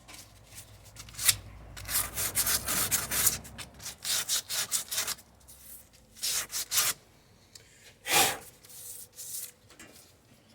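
Quick back-and-forth rubbing strokes on a car part during a wheel-bearing job, coming in several short bursts with pauses between.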